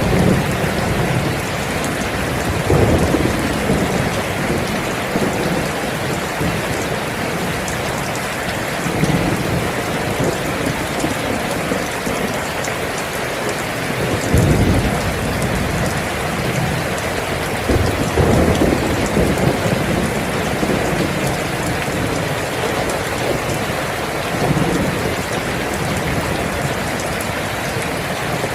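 Steady heavy rain falling, with several low rolls of thunder, the strongest about halfway through.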